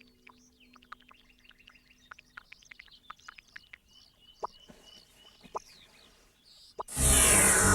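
Small birds chirping and twittering, many short quick calls, faint under a soft held musical tone that fades out in the first couple of seconds. About seven seconds in, loud music suddenly swells in.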